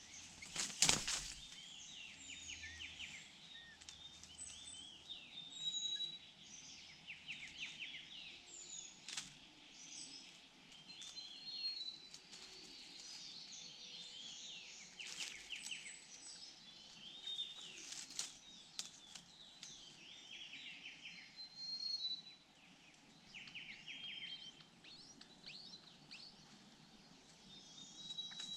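Many small birds chirping and calling at once, a steady chorus of short varied notes and whistles. A single loud knock comes about a second in, with a few fainter clicks later.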